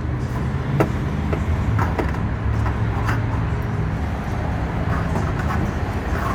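Steady low vehicle engine rumble, with a few light clicks and taps scattered through it.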